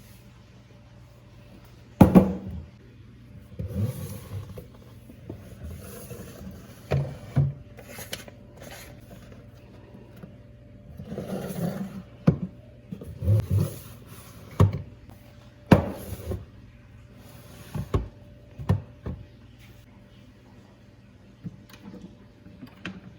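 Household objects being handled in a kitchen: a string of separate knocks and clunks, the loudest about two seconds in, with short stretches of rubbing between them.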